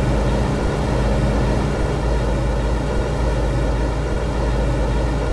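MTR M-Train electric multiple unit heard from inside, a steady low hum and hiss with a faint steady tone throughout.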